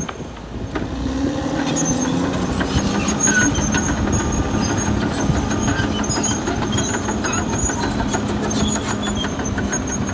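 Caterpillar D6R XL crawler bulldozer working: its diesel engine runs steadily under a busy clatter of steel tracks, with short high squeaks from the track running gear. The level dips briefly about a second in, then holds steady.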